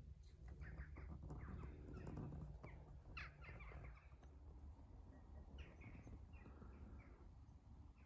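Faint outdoor ambience: scattered short bird calls over a low, steady background rumble.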